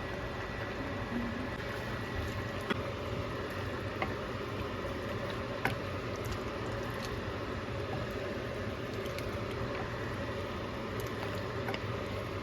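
Chicken cooking in a pot: a steady bubbling sizzle, with a few sharp pops in the first half.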